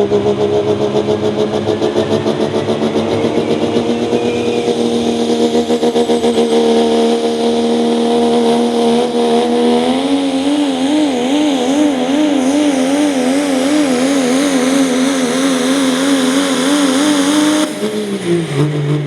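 Super stock diesel pickup truck running at full throttle down the pull track, its engine note climbing slowly, then wavering up and down about twice a second as the engine speed surges. Near the end the throttle comes off and the pitch falls.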